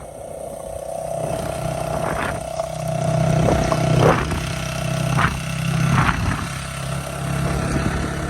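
A motor engine running steadily, growing louder over the first few seconds and staying loud, with a few sharp knocks or clicks in the middle.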